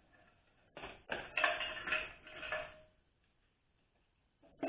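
Metal transmission parts knocking and clattering as they are handled, with two sharp knocks followed by about a second and a half of rattling that carries a ringing metallic tone. The sound then stops abruptly.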